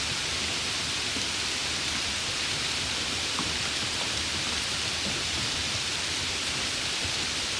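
Steady rainfall: an even, unbroken hiss of rain, with a few faint separate drop ticks.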